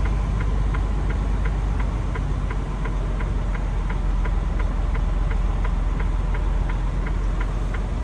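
Semi-truck diesel engine idling with a steady low rumble and a light, even ticking about three times a second.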